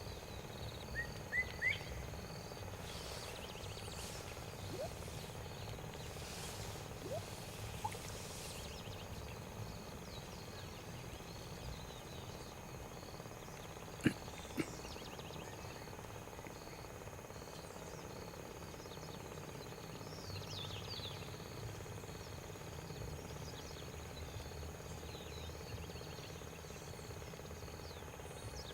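Outdoor natural ambience with no speech or music. A steady high insect-like drone and small repeated chirps from birds or insects sit over a low steady rumble. Two brief sharp clicks come about halfway through.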